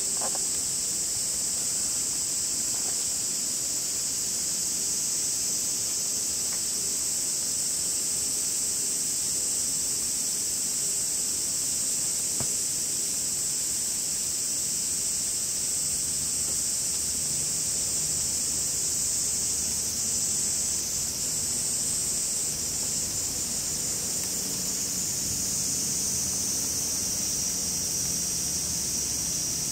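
Cicadas calling: a steady high-pitched buzz with no break. A faint low hum joins in about halfway through.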